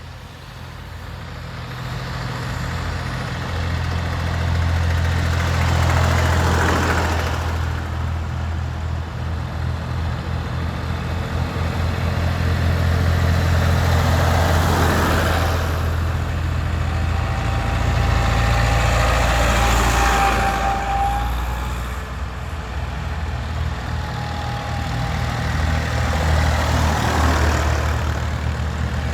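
Tractor engines running as a procession of tractors drives past, a steady low engine hum that swells and fades about four times as each group passes.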